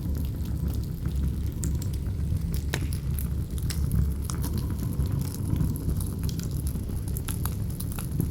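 Campfire crackling, with irregular sharp pops and snaps of burning wood over a steady low rumble of strong wind.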